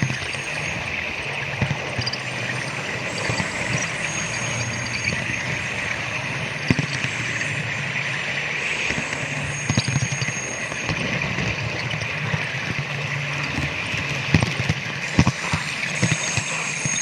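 Model railway train running on its track: a steady hum and rolling noise, with irregular clicks and knocks as the wheels pass over rail joints and points.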